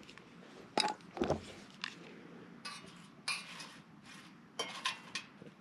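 Irregular clinks and scrapes of twigs and kindling being handled against a stainless steel Solo Stove fire pit while a fire is being got going.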